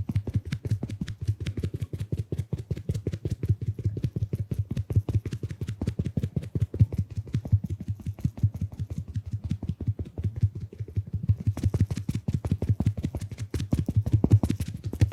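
Mini makeup puff sponge patted rapidly and steadily, a quick run of soft, dull taps. The taps gain a slightly crisper edge near the end.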